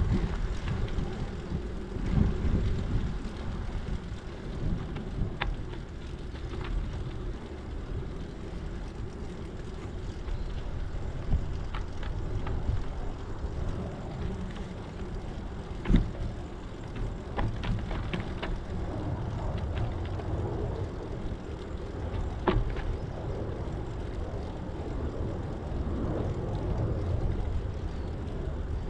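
Wind buffeting the microphone over the rumble of a bicycle's tyres rolling on a trail, with a few sharp knocks from bumps, the loudest about two-thirds of the way through.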